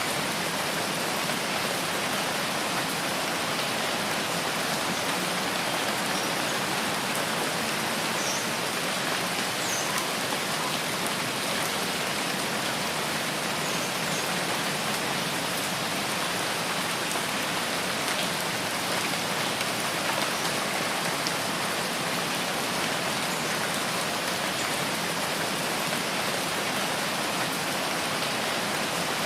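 Steady rainfall in a rain forest, an even hiss of rain on leaves and surfaces with no change in strength.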